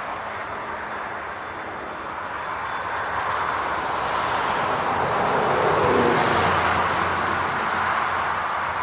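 Jet airliner passing, a rushing engine noise that swells to a peak about six seconds in and then eases off slightly.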